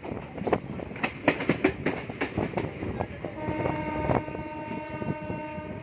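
MEMU electric train's wheels clattering over rail joints and points, heard from an open coach doorway. From about three seconds in, a train horn sounds one steady note until the end.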